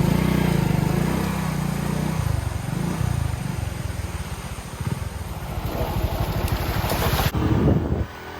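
A small Hero motorcycle's single-cylinder engine running just after being restarted, having given out moments before; its pitch rises and falls with the throttle. The sound drops away abruptly near the end.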